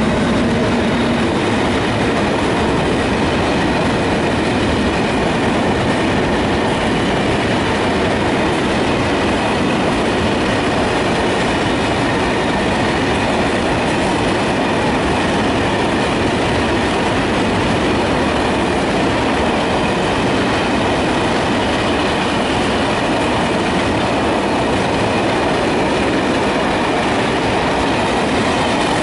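Freight train of open box wagons rolling past at speed behind an E652 electric locomotive: a steady, unbroken noise of wheels on rail with a faint steady high whine above it.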